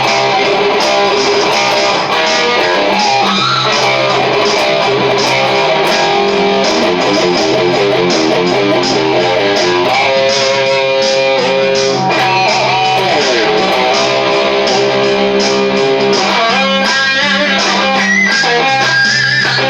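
Charvel DK24 HSS electric guitar playing a free-form solo with quick runs and a few bent notes. It plays over steady bass and drum backing generated by a DigiTech Trio band-creator pedal.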